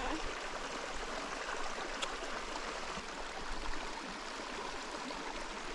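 Creek water running steadily over rocks, a constant rushing hiss, with one faint tick about two seconds in.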